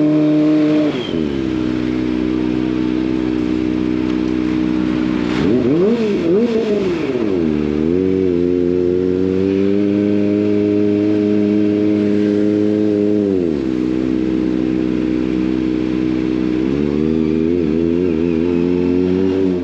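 Kawasaki ZX25R's 249 cc inline-four engine running through an SC Project exhaust. The engine note drops about a second in, then rises and falls quickly a few times around six seconds in. It holds steady, drops again at about thirteen seconds, and wavers in short revs near the end.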